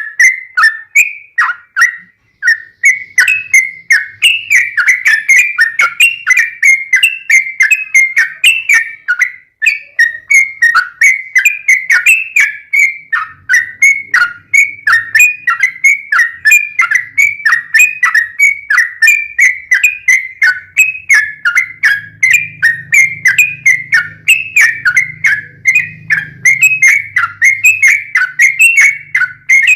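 Yellow-vented bulbul (trucukan) singing a fast, unbroken run of short whistled notes, each dropping in pitch, about three a second.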